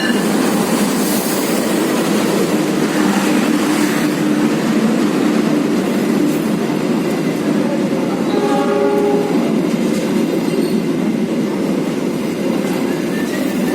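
A train passing through the station without stopping, a loud steady rumble of wheels on rail, with a brief pitched sound about eight seconds in.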